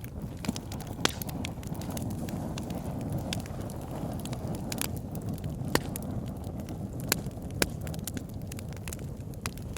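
Wood fire burning in a fireplace: a steady low rumble of the flames with frequent irregular crackles and sharp pops, a few of them louder.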